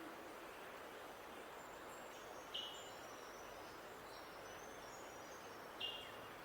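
Birds calling over a steady background hiss: a short, sharp call about two and a half seconds in and again near the end, with faint, high, thin notes from another bird in between.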